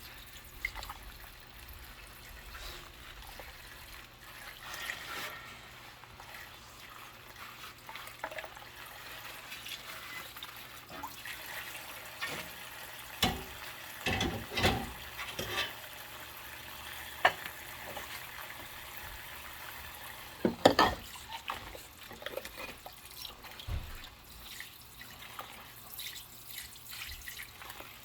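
Dishes being washed by hand in a sink with rubber-gloved hands: water trickling and dripping, with scattered clinks and knocks of dishes, clustered about halfway through and again about three-quarters through.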